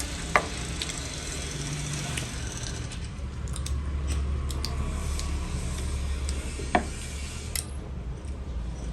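Eating sounds close to the microphone as puri and vegetable curry are eaten: chewing and small clicks, with two sharper clicks, one just after the start and one about two-thirds of the way in, over a steady low rumble.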